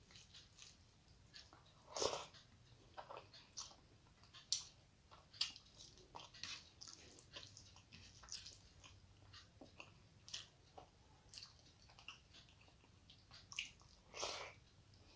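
Quiet eating sounds: chewing a mouthful of rice and curry, with scattered soft wet clicks and small crunches. A slightly louder burst comes about two seconds in and again near the end.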